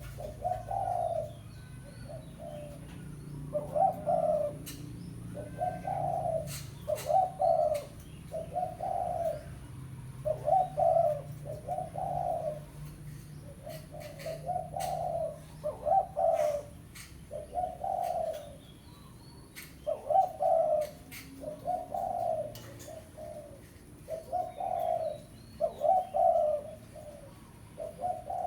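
Spotted dove cooing repeatedly: short, low coo notes come about once a second in loose runs, the call a rival dove answers to.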